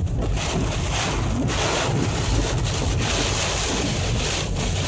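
Severe thunderstorm wind blowing in strong gusts, a steady rushing noise with wind buffeting the microphone.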